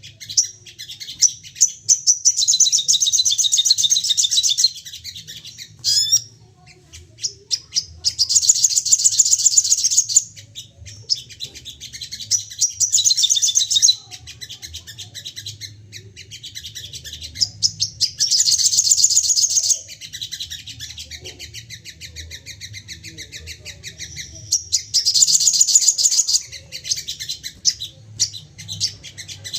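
Sogon songbird giving excited, rapid-fire song in bouts of fast, high-pitched chattering notes, each bout about two to three seconds long, repeated about five times with short pauses. A faint low hum runs underneath.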